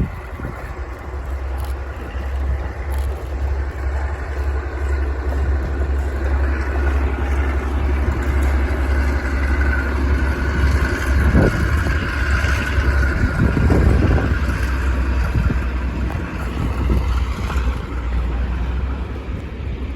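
Class 52 Western diesel-hydraulic locomotive hauling a train past, its engine and the train's running noise swelling to their loudest about halfway through, over a steady low wind rumble on the microphone.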